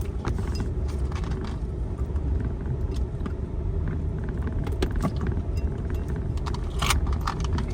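Car driving slowly over a rough, potholed dirt road, heard from inside the cabin: a steady low road rumble with scattered rattles and knocks from bumps. The loudest knock comes about seven seconds in.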